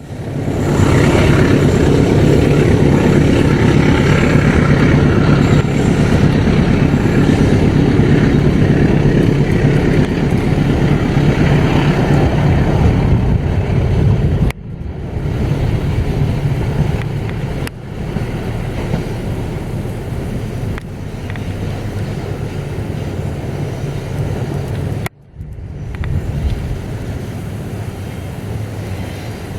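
Diesel locomotive engine running as a train passes, in several clips cut together. The first half is the loudest, with a steady low drone. The sound drops abruptly at each cut, and the later clips are quieter train noise.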